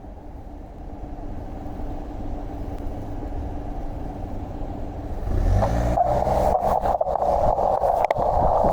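Road traffic noise: a motor vehicle's engine running, then revving up with rising pitch about five and a half seconds in, followed by a louder steady rushing noise with scattered clicks.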